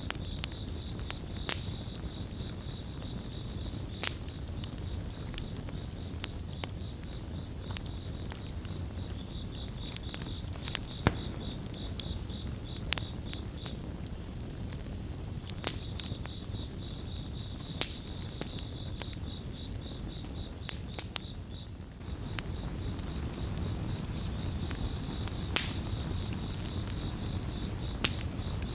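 Campfire burning with a low steady rumble and scattered sharp crackles and pops, while a cricket chirps in fast, high-pitched pulsed trains that stop twice, briefly, in the middle.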